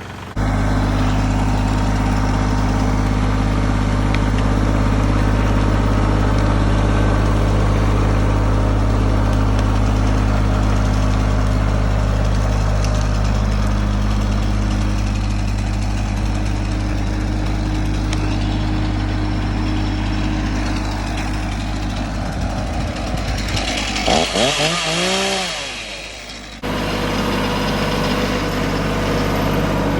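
An engine running steadily, with its pitch swinging up and down briefly near the end before it switches abruptly to another steady engine sound.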